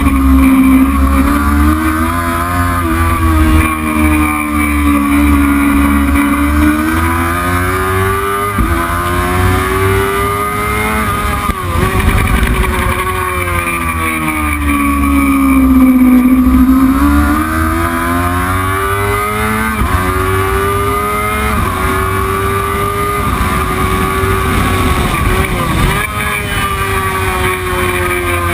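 Racing motorcycle engine run hard through a lap. Its pitch climbs under throttle and drops sharply at each gear change, about five times. Between about 12 and 16 seconds in, it winds down and then climbs again.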